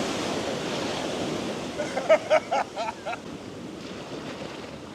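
Sea surf washing on the beach, with wind buffeting the microphone. About two seconds in, a quick run of six or seven short, high-pitched cries rises over the surf for just over a second.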